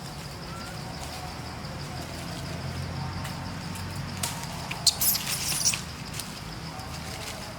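Outdoor ambience with a steady high insect drone and a low rumble, broken about five seconds in by a short burst of crackling and rustling.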